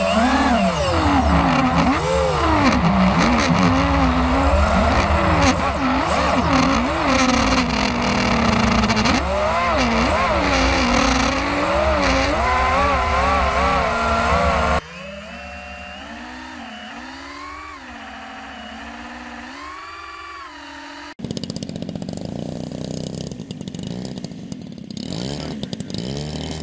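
Model aircraft engines running in flight, their pitch rising and falling again and again. The sound cuts abruptly about halfway through to a quieter engine, and again a few seconds before the end to a louder, rougher engine sound.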